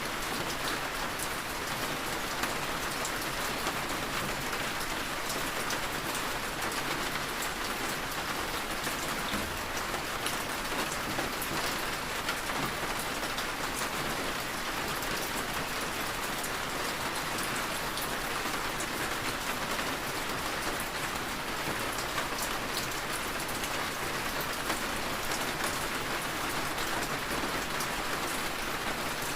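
Heavy rain falling steadily, a continuous even hiss with scattered drop ticks.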